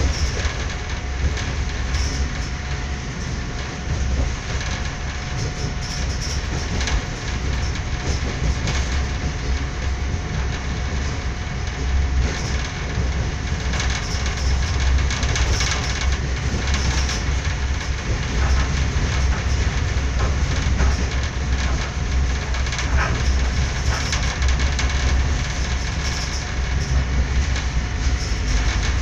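Passenger train running at speed, heard from inside the carriage: a steady low rumble of wheels on the rails with scattered clicks from the track.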